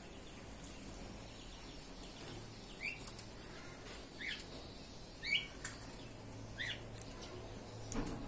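Small birds bathing, with fluttering wings and four short rising chirps spaced about a second apart, and a soft knock near the end.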